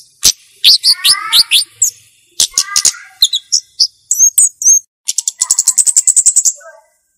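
Flowerpecker (cabe-cabean) calling: sharp, high chirps and short sweeping notes, then a fast trill of clicky high notes from about five seconds in.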